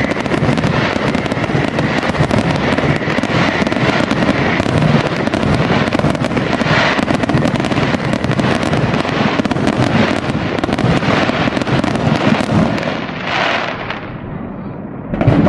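Aerial fireworks bursting in a dense barrage: a continuous rapid crackle of many pops and bangs. It thins out about thirteen seconds in, and one loud bang comes near the end.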